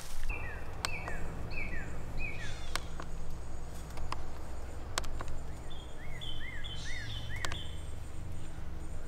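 A songbird singing in the woods: a run of repeated whistled notes, each sliding downward, then a few seconds later a quicker phrase of rising-and-falling notes. A few sharp clicks or snaps and a low steady hum sit underneath.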